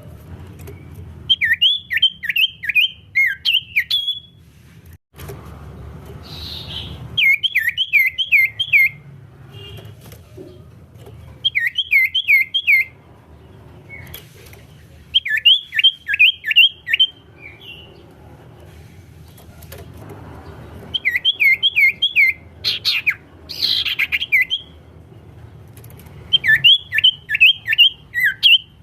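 Common iora (cipow) singing in full song: about seven loud phrases, each a quick run of sharp downward-slurred whistled notes, repeated every few seconds.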